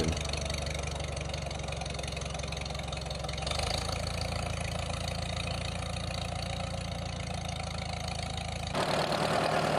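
Tractor engine running steadily, working a raised-bed cultivator. The sound shifts abruptly about three and a half seconds in and again near nine seconds.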